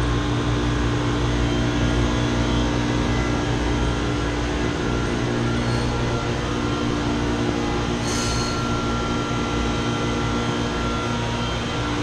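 Steady hum of a York chiller and its chilled-water pump running, with constant low tones under an even mechanical noise as the pump circulates water. A short hiss about eight seconds in.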